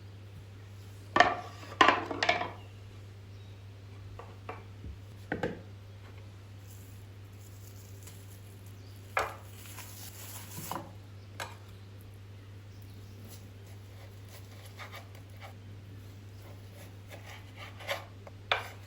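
Household things being handled and set down on hard surfaces: scattered knocks and clatters, the loudest run of them about a second in, then a few more spread out and two near the end.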